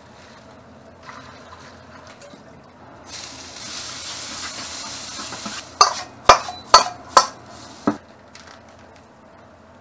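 Noodles sizzling as they stir-fry in a pan, a steady hiss that starts about three seconds in and stops abruptly under three seconds later. Then come five sharp knocks, about half a second apart and louder than the sizzle.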